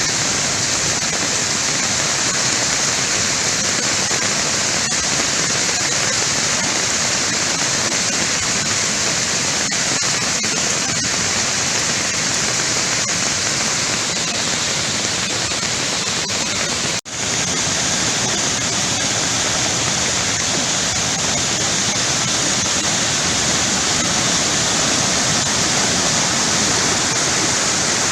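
Floodwater rushing down a mountain waterfall and stream in spate, a loud steady rush of water. It cuts out for an instant about seventeen seconds in, then resumes.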